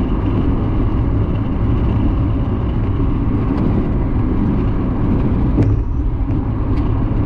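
Steady road and engine rumble inside a moving car's cabin, cruising at about the speed limit.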